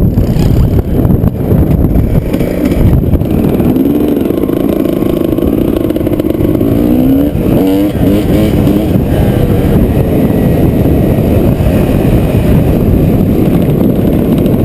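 Dust-storm wind buffeting the microphone in a loud, continuous low rumble. A wavering droning tone rises and falls within it from about four to eight seconds in.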